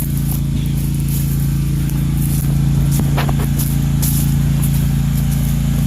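Small engine of a riding vehicle running steadily at constant speed, a continuous drone. There is a brief high chirp about three seconds in.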